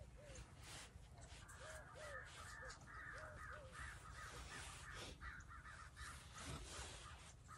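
Faint birds calling: short arched calls in pairs, repeating about every one and a half seconds, with a quick run of higher chirps through the middle, over a low steady hum and a few faint clicks.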